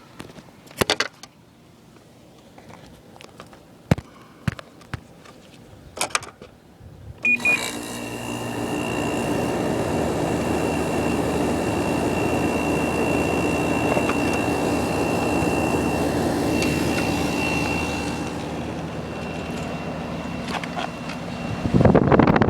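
A Samsung 10,200 BTU window air conditioner is switched on about seven seconds in, after a few clicks and knocks; its rotary compressor and fan start abruptly and run steadily with a thin whine over a low hum. Near the end a louder rushing noise comes in.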